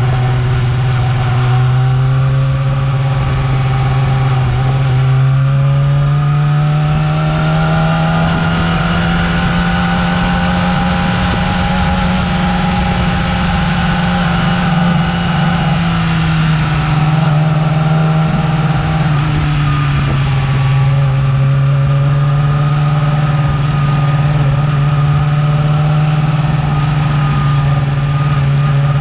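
Yamaha R6 inline-four engine with its stock exhaust, running steadily for the whole stretch. Its pitch climbs gently over the first several seconds, sags slowly, dips about two-thirds of the way through, then holds level.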